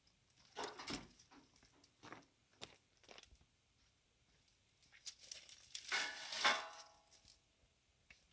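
Dishes and metal cooking utensils being handled: scattered clinks and knocks, with a louder clatter about six seconds in that rings briefly.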